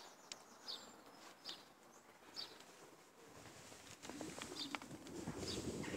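Faint, short bird chirps, one every second or so, with a low rushing noise building from about halfway through.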